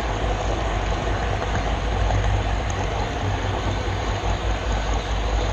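Steady rumbling noise of a model railroad camera car rolling along the track, heard up close from the car itself.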